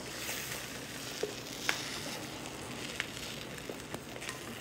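Raw chicken pieces sizzling as they drop from a bowl into a hot frying pan, a steady frying hiss, with a few sharp clicks along the way.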